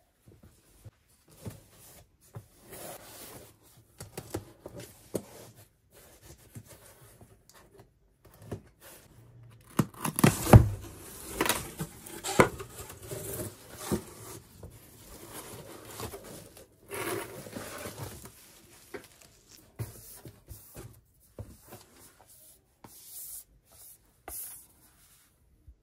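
A parcel being opened by hand: packaging tearing, cutting and rustling, with scattered knocks and clicks. The busiest, loudest stretch, with one heavy knock, comes about halfway through.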